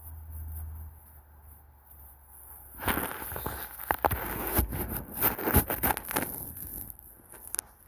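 Crunching snow and rustling clothing as someone moves through deep snow, starting about three seconds in with dense, irregular crunches and sharp clicks, after a low rumble at the start.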